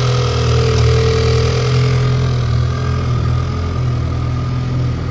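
2019–2020 Lincoln Nautilus engine idling steadily.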